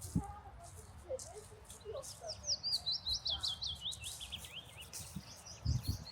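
A songbird singing a quick run of high notes that drift slightly lower in pitch, with scattered lower chirps. A soft knock comes just after the start and low thumps come near the end.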